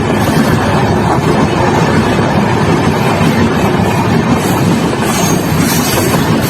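Indian Railways express train running at speed, a loud, steady rumble.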